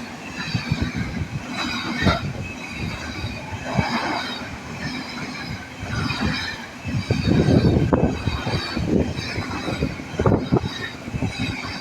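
Freightliner freight train's wagons rolling past, the wheels clattering in a regular beat about once a second over a steady rumble, heaviest about seven seconds in.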